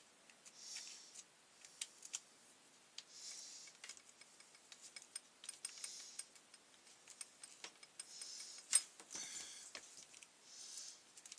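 Faint clicks and small knocks of hand tools and plastic and metal parts being handled while a petrol brush cutter is taken apart, with soft scratchy swishes every two to three seconds and a sharper click about nine seconds in.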